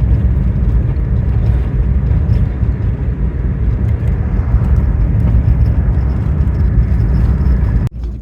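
Steady rumble of a car driving along city streets, road and engine noise heard from inside the cabin, cut off suddenly near the end.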